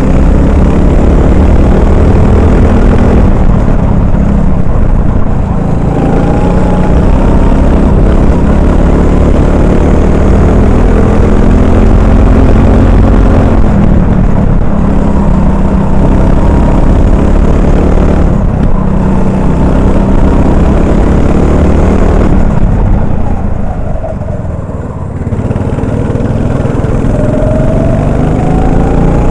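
Racing kart's single-cylinder Honda 390 four-stroke engine heard from the driver's helmet, running loud and repeatedly revving up and dropping back as the driver accelerates and lifts through corners, with a brief quieter off-throttle stretch about two-thirds of the way through.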